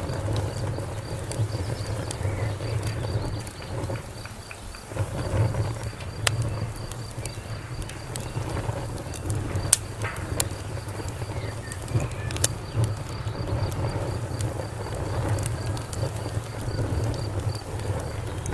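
Wood fire crackling, with sharp pops every few seconds over a low, steady rumble of the burning. A faint, even insect chirping sits high in the background.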